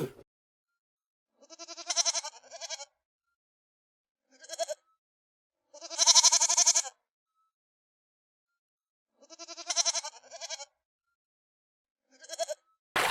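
Sheep bleating: about five wavering calls separated by silence, the longest and loudest near the middle.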